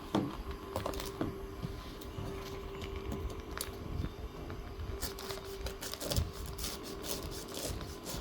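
Knife cutting and prying open a durian's tough, spiky husk: irregular sharp clicks and cracks, coming thicker after about five seconds, over a steady faint hum.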